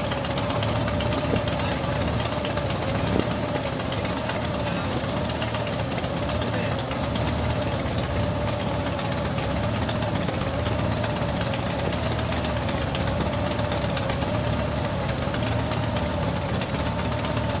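Motorcycle engine running steadily, with a low, even pulse and a faint wavering whine above it.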